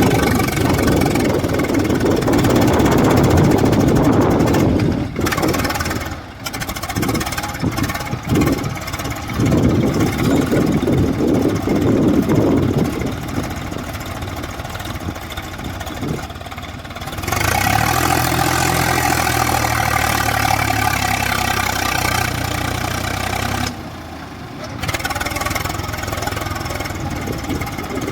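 Swaraj tractor's diesel engine working hard as the tractor tries to pull itself out of deep sand. The revs surge and fall for the first half, settle into a steadier note for several seconds past the middle, and dip briefly near the end.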